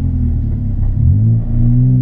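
Ford Fiesta ST's turbocharged four-cylinder engine idling with the car stationary, heard from inside the cabin. About a second in, the engine note dips and then rises again.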